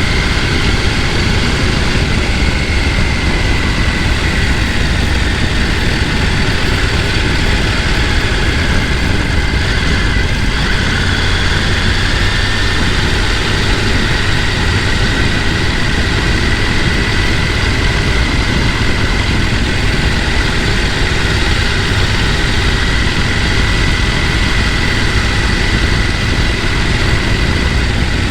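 Mountain stream rushing over rocks: a steady, dense rush of water with a deep rumble beneath it and a faint, high, wavering tone on top.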